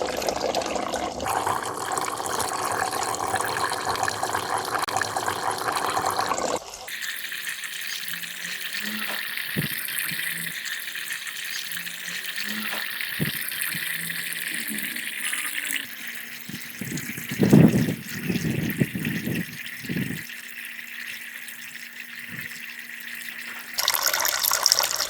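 Water splashing and trickling steadily from a small pump-fed garden fountain. The sound changes character twice, and there are a few short knocks about two-thirds of the way through.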